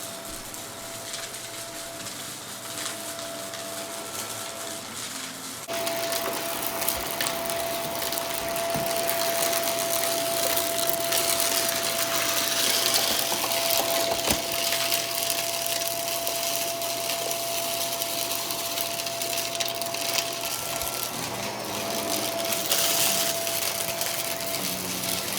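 Vacuum cleaner running, with a steady motor whine and rushing air; the sound jumps louder about six seconds in and stays there, with a few sharp clicks of debris.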